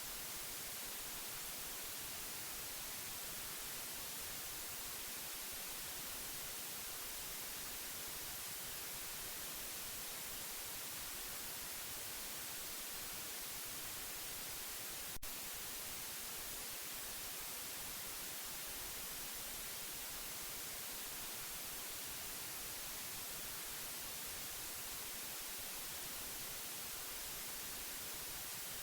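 Steady white noise: an even hiss with no rhythm or tone, brightest in the high range. A single brief click about halfway through.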